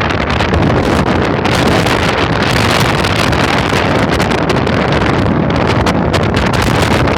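Loud, steady wind buffeting the microphone, with rain.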